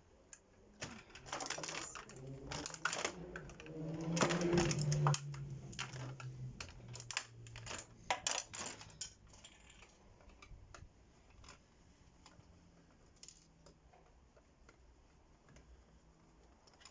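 Hand tools and loose metal microwave parts clicking and clattering as the last pieces are worked free and set down, busiest and loudest in the first half, then only scattered light clicks.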